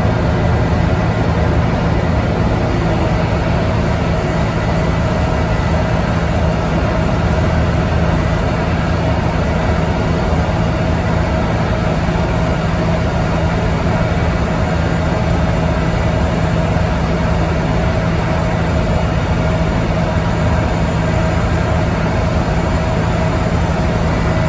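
Scania N94UD double-decker bus engine running steadily under way, its pitch holding level with no gear change.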